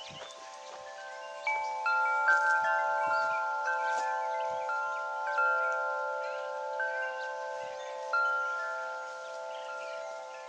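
Wind chimes ringing in the breeze, struck irregularly every second or so, their several tones ringing on and overlapping into a sustained chord. The strikes are loudest about a second and a half in and again near eight seconds.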